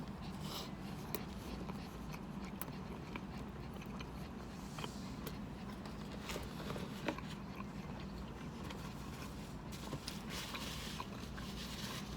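Someone biting into and chewing a chili dog: soft scattered mouth clicks and wet chewing noises over a steady low hum.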